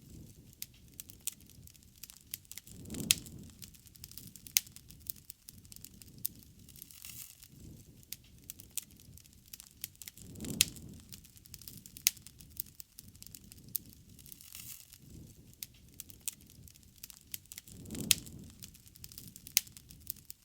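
Wood bonfire burning, with frequent sharp crackles and pops over a low rumble of flame that swells up three times, about every seven seconds.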